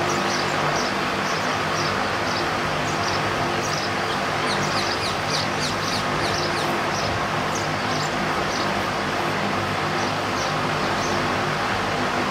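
Small birds chirping in quick, short, high calls, thickest a few seconds in, over a steady hum and hiss.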